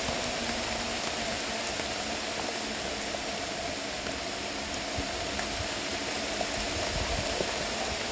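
Steady rain falling: a continuous hiss with faint, scattered drop ticks.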